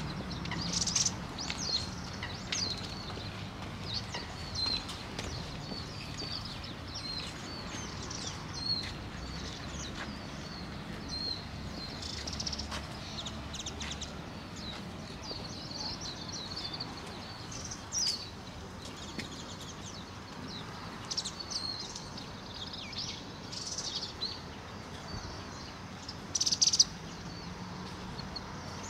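Small birds chirping in the trees: many short, high calls, scattered and frequent, with one louder call near the end, over a steady low outdoor background noise.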